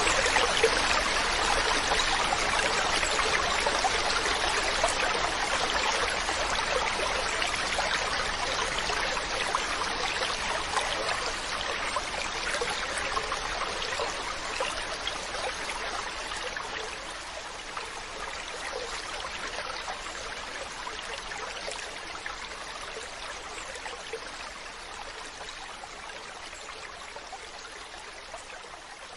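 Mountain stream running with a steady rush of water, gradually fading out.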